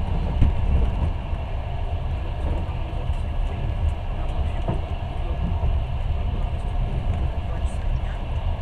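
Passenger train running at speed, heard from inside the carriage: a steady low rumble of the wheels on the rails.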